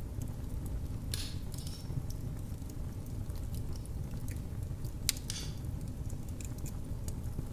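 Wood fire in a fireplace crackling: a steady low rumble of flames with scattered sharp pops, the loudest about a second in and about five seconds in.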